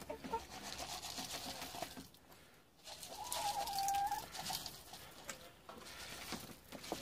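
Backyard hen calling: soft low calls, then one drawn-out call lasting about a second, about three seconds in.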